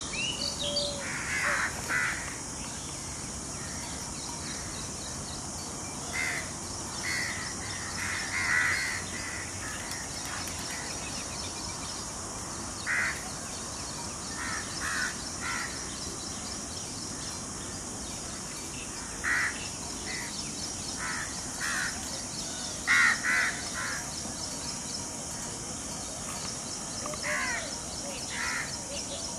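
Birds calling: short calls, often in twos or threes, come every few seconds over a steady high hiss.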